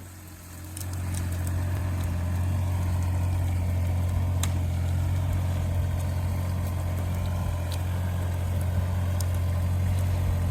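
Diesel engine of a Doosan DX35z mini excavator running with a steady low hum, getting louder about a second in and then holding steady. A few faint sharp cracks sound over it.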